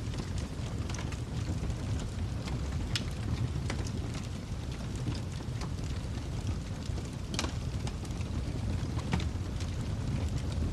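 Wood fire crackling in a fireplace: a steady low rumble of the flames with scattered sharp pops and snaps, the loudest pop a little past the middle.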